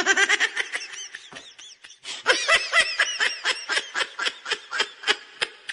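A person laughing hard: a long, unbroken run of quick, high-pitched bursts, about four or five a second.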